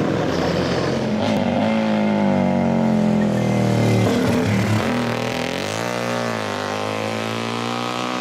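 Vintage motorcycle engine running under throttle, its pitch holding steady, dropping about four seconds in, then rising and falling again as it is revved.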